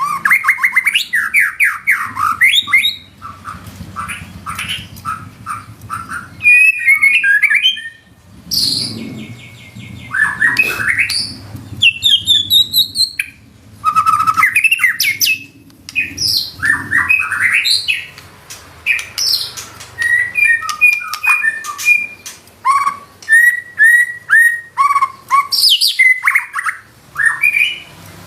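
White-rumped shama singing loudly and without pause, rapid-fire: a varied run of whistled notes, fast trills and buzzy chattering phrases broken by short gaps, including mimicked fill-in phrases.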